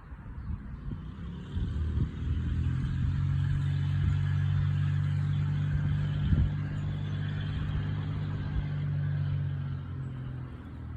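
A motor vehicle's engine running steadily with a low hum, coming in about two seconds in and fading out near the end, with a couple of short sharp knocks over it.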